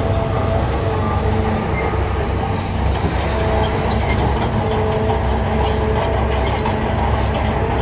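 Heavy crawler bulldozer's diesel engine running steadily with a low rumble, overlaid by on-and-off high squealing tones from the machine.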